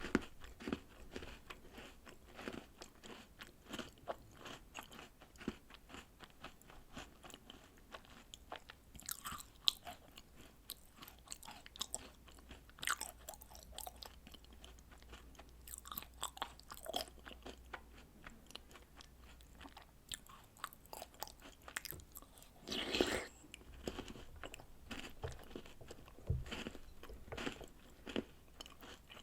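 Close-miked chewing and crunching of chocolate snacks and cereal soaked in milk: a steady run of small crunches with denser clusters every few seconds, and one louder, longer mouth noise about three quarters of the way through.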